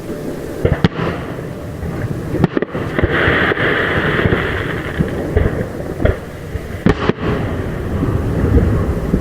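Fireworks display: aerial shells bursting in a run of sharp bangs over a steady low rumble. A hissing crackle comes between the bangs about three seconds in.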